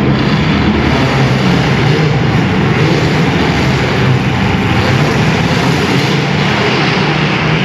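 Several compact car engines running and revving together in a steady, loud din.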